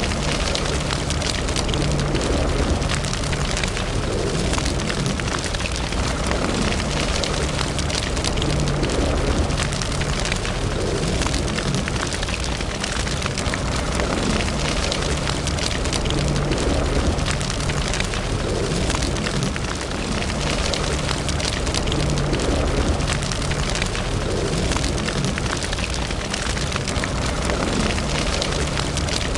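Fire crackling in a fireplace: dense, constant crackles and small pops over a steady low rumble.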